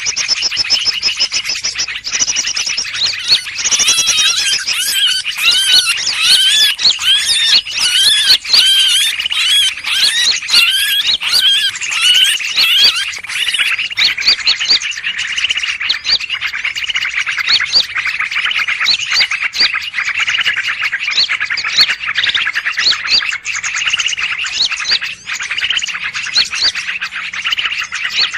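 Bird-lure recording of a busy mixed chorus of small birds, many calls overlapping in continuous chatter. From about four seconds in to about thirteen seconds, one bird repeats a rising-and-falling chirp roughly every half second or so over the rest.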